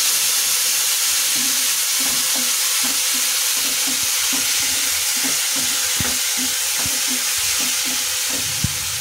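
Freshly added chopped tomatoes sizzling steadily in hot oil in a nonstick kadhai, stirred with a wooden spatula in regular strokes about three times a second. A single sharp click comes near the end.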